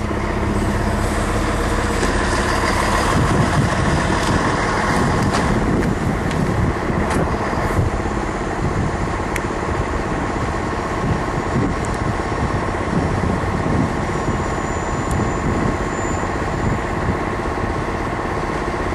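Bombardier Talent diesel railcar running along the track: a steady rumble of engine and wheels with a few sharp clicks in the first half.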